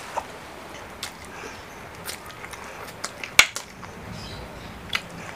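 Close-up eating sounds: chewing a mouthful of spicy noodles, with scattered sharp clicks, the loudest a little past the middle.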